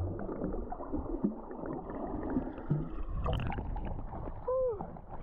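Muffled seawater sloshing and gurgling around a swimmer entering the cold sea, with small splashes. A short voiced exclamation comes about four and a half seconds in.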